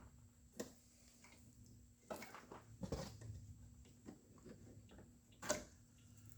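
Faint, scattered clicks and knocks, about five over a few seconds, the loudest near the end: wires and plastic parts of a car dash wiring harness being handled.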